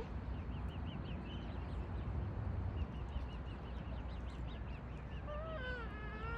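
Birds calling: two runs of quick, high peeps, then a longer, drawn-out, lower call near the end, over a steady low rumble.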